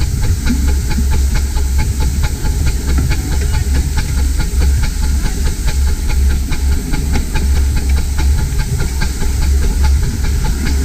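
15-inch gauge miniature steam train running along the line: a steady low rumble with a hiss over it and a fast, even clicking.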